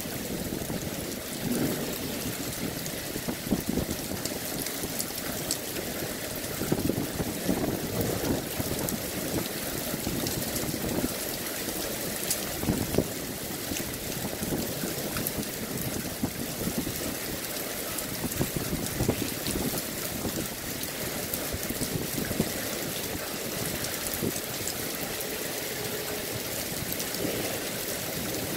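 Heavy thunderstorm rain falling steadily, a constant hiss, with irregular splatters of water dripping from the roof edge close by.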